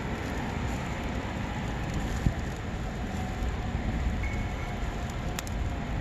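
Wood campfire burning with a steady crackling hiss and two sharp pops, over a low rumble of wind on the microphone.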